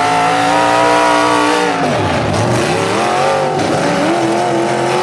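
Full-size demolition derby car engines revving hard. The pitch holds high, falls away about two seconds in, then climbs again and holds.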